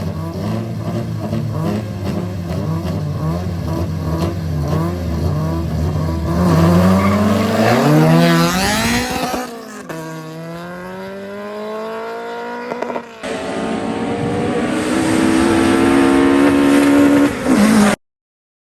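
Race car engines at a drag strip. One is held at steady revs, then revs up, its pitch rising as it accelerates hard from about six seconds in. After a cut, an engine runs at high, steady revs.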